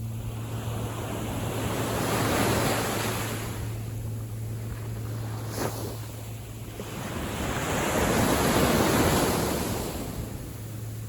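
Small sea waves washing in, swelling twice and easing off, with wind rumbling on the microphone and one sharp tick about halfway through.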